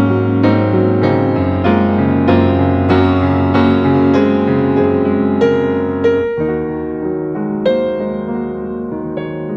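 Background piano music: gentle notes struck about twice a second over held chords, with a change of chord about six seconds in.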